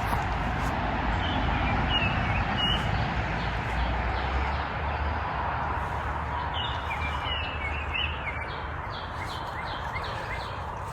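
Songbirds chirping, with short rising calls a couple of seconds in and a busier run of them in the second half, over a steady rushing outdoor background.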